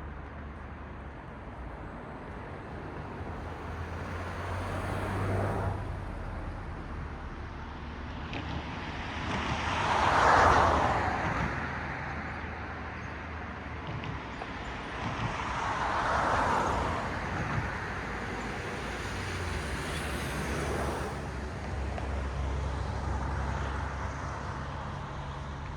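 Cars passing one after another on a road, each a swell of tyre and road noise that rises and fades over a few seconds, about four or five in all, the loudest about ten seconds in. A steady low traffic rumble runs underneath.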